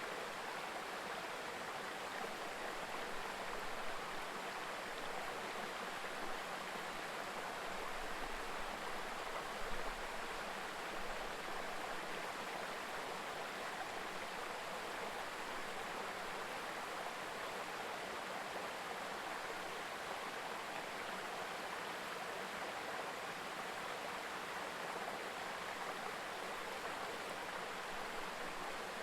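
Mountain river babbling: a steady, even rush of flowing water.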